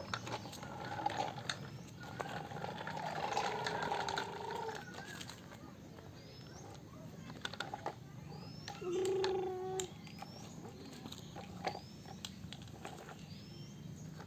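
Small birds chirping, short high calls repeated every second or so, with scattered sharp clicks and two brief hummed tones.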